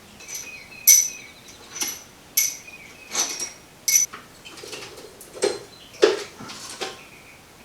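Hand work on the wiring plugs and hoses at the back of an engine bay: about half a dozen short, high squeaks and clicks in the first four seconds, then softer knocks and rustling.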